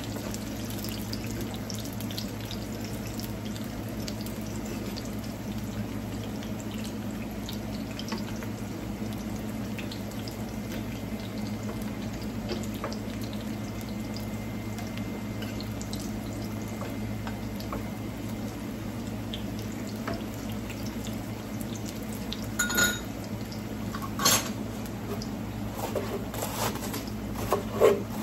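Ripe plantain slices (maduros) sizzling steadily in oil in a frying pan, with a few sharp clinks of a utensil against the pan in the last few seconds.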